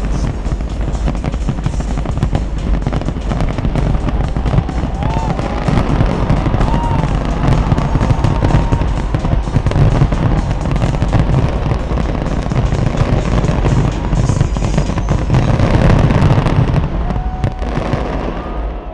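Fireworks display going off continuously: dense crackling and popping with low booms underneath, with music playing alongside and crowd voices mixed in.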